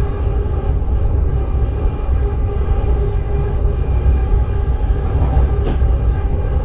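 Sprinter train running, heard from the driver's cab: a steady low rumble of wheels on rail with a steady hum over it, and one sharp click a little over five seconds in.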